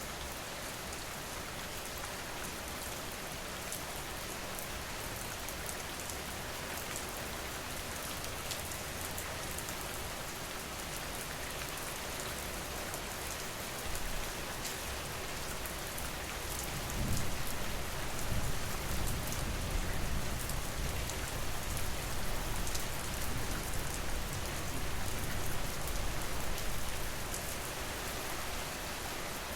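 Steady rain falling, an even hiss with many small drop ticks. About halfway through, a low rumble comes in and grows louder for about ten seconds, then eases off.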